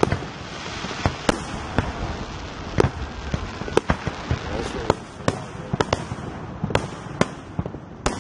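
Aerial fireworks shells bursting in a display: an uneven run of sharp bangs, roughly two a second, over a continuous rumble.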